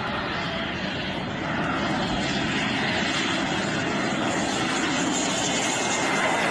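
Jet engine noise from the X-31's single turbofan as the aircraft comes in to land: a steady rushing noise that grows gradually louder, gaining more hiss in the second half.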